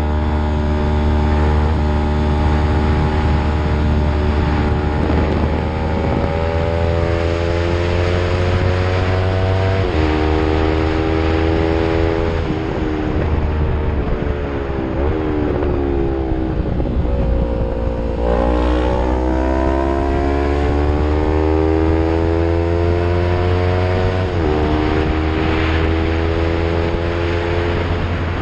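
Yamaha MT-03 engine through an Arrow full-system exhaust, accelerating hard and shifting up: the pitch rises through each gear and drops back at each change, about six times. A heavy low rumble of wind on the microphone runs underneath.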